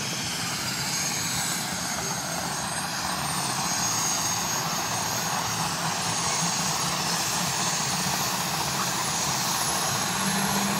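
Military helicopter's turbine engines and rotor running, a steady rushing noise with a thin high whine, growing a little louder over the first few seconds.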